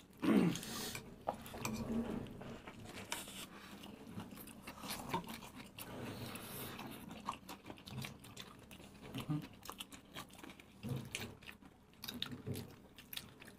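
Several people biting into and chewing soft burgers, with scattered small wet mouth clicks and smacks. A brief voice-like sound comes right at the start.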